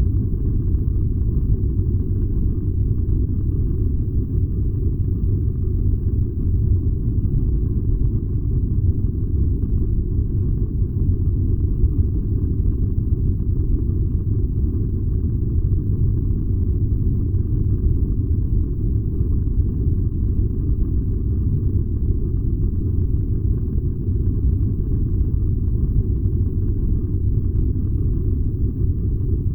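Furnace running with a steady, deep rumble that does not change.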